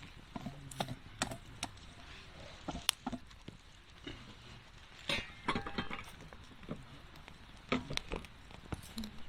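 Scattered sharp clicks and light knocks, uneven in time, of a wood campfire crackling and popping.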